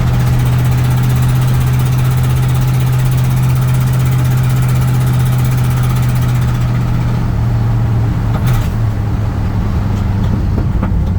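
A 1984 Chevy C10 pickup's 305 V8 runs steadily while driving, a strong low drone that drops a little in pitch about seven seconds in as the throttle eases. A short knock comes about eight and a half seconds in.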